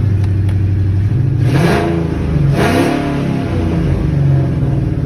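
Turbocharged Ford Mustang engine running on its first start-up after a turbo install, blipped twice about two and three seconds in, each rev rising and falling back to idle.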